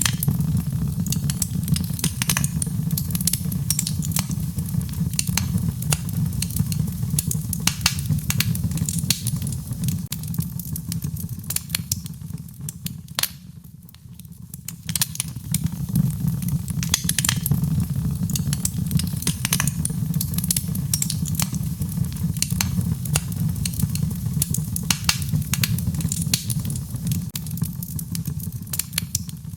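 Wood fire crackling with a constant scatter of sharp pops and snaps over a steady low rumble, easing briefly about halfway through.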